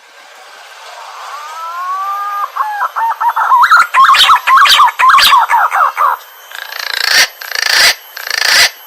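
Green pigeon (punai) calling: drawn-out rising whistles that break into a fast run of warbling whistled notes, followed by several harsh, noisy bursts near the end.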